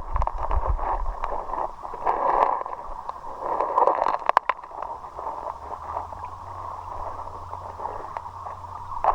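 River water splashing and gurgling in uneven surges, with a few sharp knocks about four seconds in.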